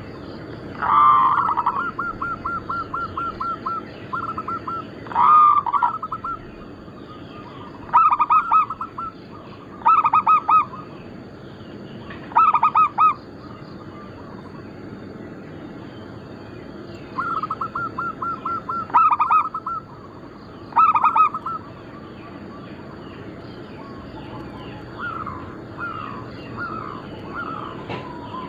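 Zebra dove (perkutut) cooing its song: phrases of short staccato coos, some run together into quick even pulsing trills, repeated every few seconds.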